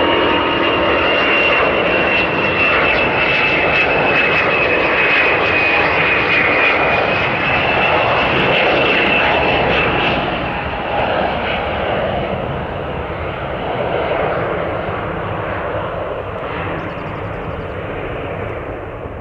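Airbus A350's Rolls-Royce Trent XWB turbofans at high power: a loud jet roar with a high whine that sinks slightly in pitch. After about ten seconds the whine fades and the roar grows gradually quieter.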